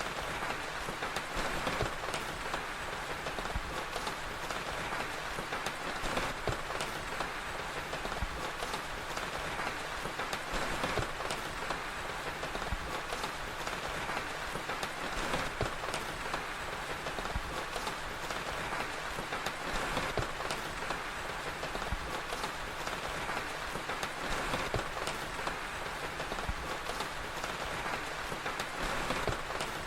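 Steady rain falling, with a crackling fire's small irregular pops scattered through it.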